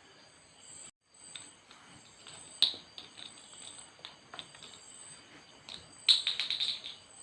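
Steady high chirring of crickets or other insects, with sharp clicks over it: a single loud one about two and a half seconds in, and a quick cluster of several near the end.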